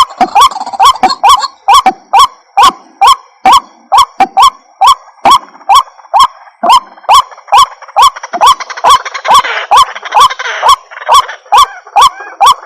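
White-breasted waterhen calling as a hunter's lure recording: a short note that rises and falls, repeated evenly about two and a half times a second. A busier layer of overlapping calls joins in the second half.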